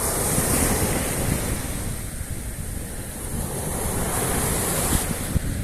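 Sea surf washing onto the shore, with wind buffeting the microphone; the hiss of a wave swells briefly near the end.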